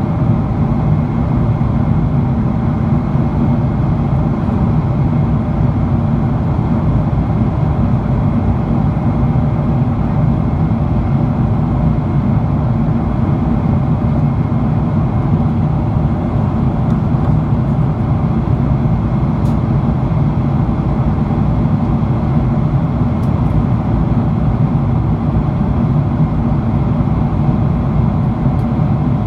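Steady roar of a Boeing 777-300ER's cabin, its GE90-115B engines and airflow heard from a window seat, even in level throughout with a few faint steady tones above the rumble.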